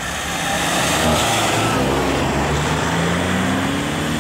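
Mercedes AMG A-Class hot hatch accelerating away, its engine note climbing steadily in pitch as it pulls through a gear.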